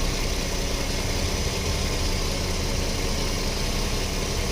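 Volkswagen Passat 3.6-litre V6 engine idling steadily.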